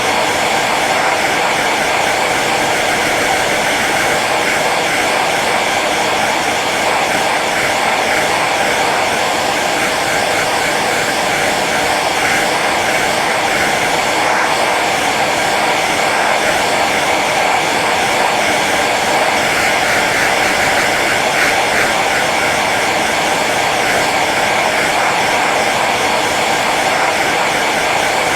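Hair dryer running steadily on its low setting: an even rush of blown air over a steady motor hum.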